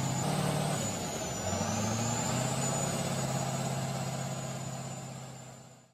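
Heavy diesel engine running under load, its pitch dipping about a second in and climbing back, with a thin steady high whine above it. It fades and cuts off at the end.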